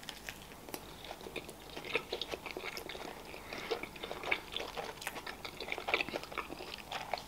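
A person chewing a mouthful of Caesar pizza with lettuce close to the microphone: a run of small, irregular crunches and mouth clicks.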